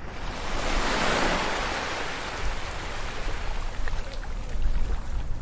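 Ocean wave breaking and washing up the beach: a surge of surf that swells in quickly, peaks about a second in, then slowly recedes, over a steady low rumble.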